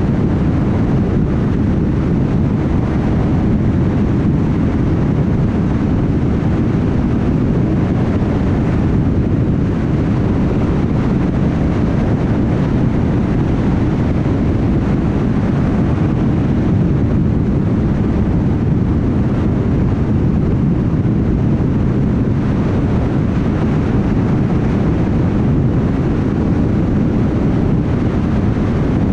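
Steady road noise of a car driving at highway speed: low tyre roar on the road surface mixed with wind, constant in level throughout.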